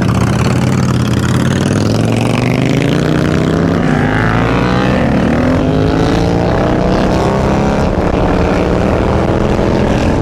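Supermoto motorcycle engine pulling hard under acceleration, its pitch rising steadily over several seconds.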